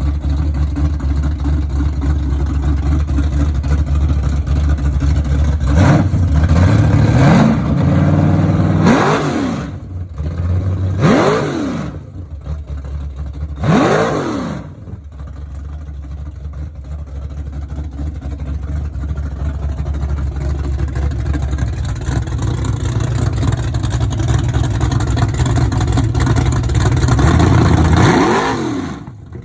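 Small-block Chevy 377 V8 in a Chevy Nova running cold just after start-up. The throttle is blipped four times in quick succession in the first half, each rev rising and falling sharply. It then settles to a steady run, with one last rev near the end.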